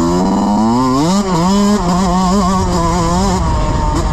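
Dirt bike engine revving up, with a brief dip about a second in like a gear change, then holding a steady pitch with small rises and falls and easing off near the end.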